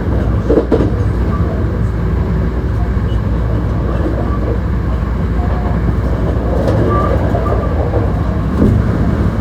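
Hankyu 1300-series commuter train heard from inside the car while under way: a steady low rumble of wheels on the rails.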